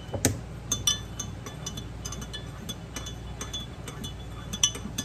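Coffee concentrate being stirred into water in a measuring cup: a stirring utensil clinks against the cup's sides again and again in an uneven rhythm, several light ringing clinks a second.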